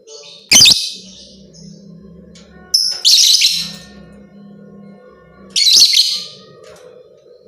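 Lovebird giving loud, harsh, shrill calls in three short bursts about two and a half seconds apart, over a faint steady low hum.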